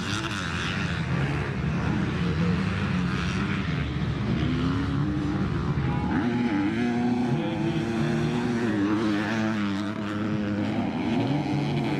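Motocross dirt bike engines running and revving, their pitch rising and falling repeatedly, with more than one engine heard at once.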